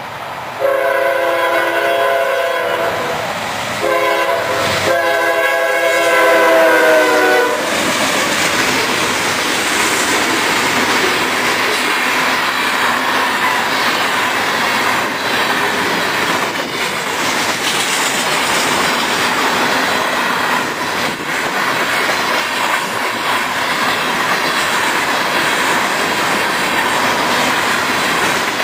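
Freight locomotive air horn sounding two long blasts, the second dropping slightly in pitch at its end. Then comes the steady rumble of covered hopper cars rolling past, with the clatter of their wheels on the rails.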